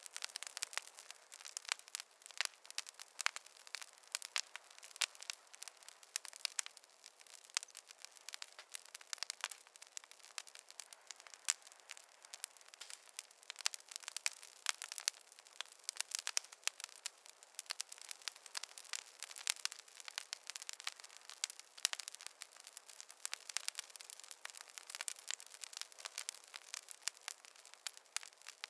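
Wood fire crackling: a dense, irregular stream of sharp pops and snaps from burning logs over a faint hiss.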